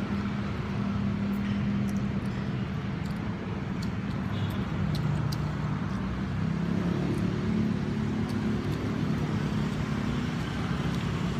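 Steady low motor hum, like an engine or traffic running, that shifts pitch about seven seconds in, with a few faint light clicks.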